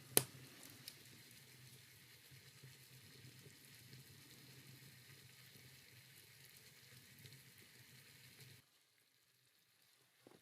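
Food sizzling and frying in a hot pan, with one sharp click just after the start. The sizzle cuts off abruptly near the end.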